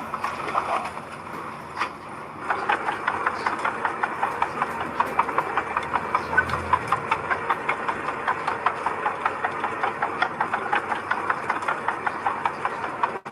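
Diesel engine of heavy earthmoving machinery running, with a rapid clattering rattle that gets louder about two seconds in.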